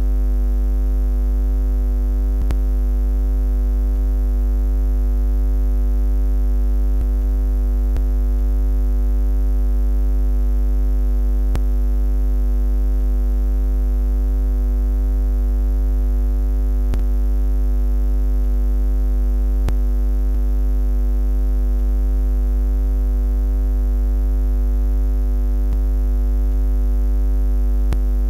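Steady low buzzing drone, a deep bass hum with a stack of unchanging higher tones over it, holding at one level throughout.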